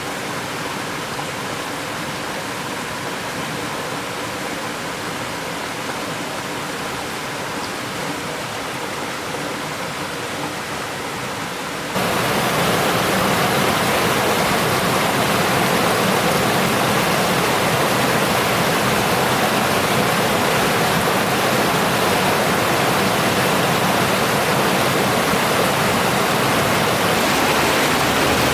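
Steady rush of flowing river water, jumping suddenly louder and brighter about twelve seconds in.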